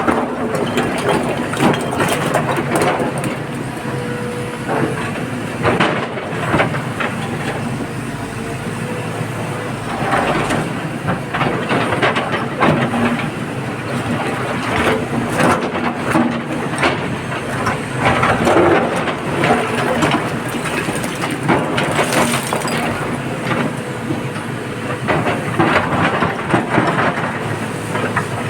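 A heavy diesel excavator engine running steadily, with frequent clanks and knocks throughout, as of an excavator working and loading material.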